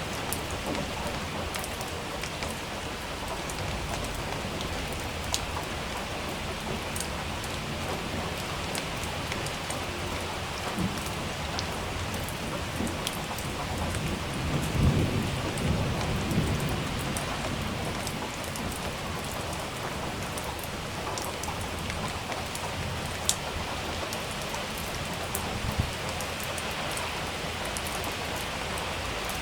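Steady heavy rain falling on a surface, with sharp individual drops ticking throughout. A low roll of thunder rumbles up about halfway through and fades over a few seconds.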